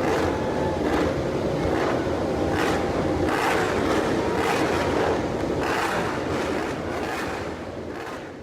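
Steady rumbling vehicle ride noise with irregular knocks and rattles, fading out near the end.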